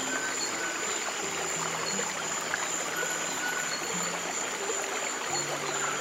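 Running stream water, a steady rush and trickle, with soft low piano notes held and changing underneath.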